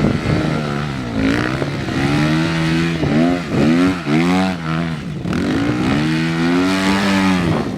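Honda CRF250R's single-cylinder four-stroke engine running and being revved: several quick blips of the throttle in the middle, rising and falling in pitch, then held at a steady higher pitch near the end. The throttle is being tried out after a new throttle cable was fitted.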